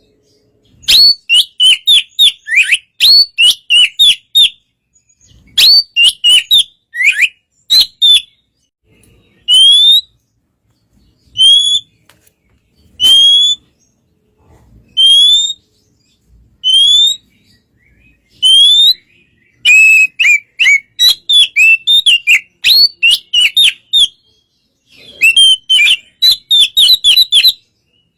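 Oriental magpie-robin (kacer) singing: quick runs of short whistled notes, then a string of single rising whistles a second or two apart, then quick runs again.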